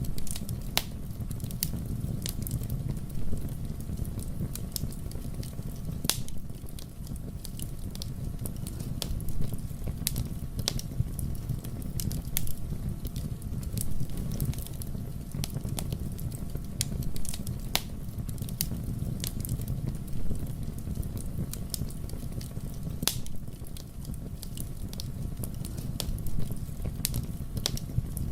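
Fire burning in a fireplace: a steady low rumble of flames with irregular sharp crackles and pops.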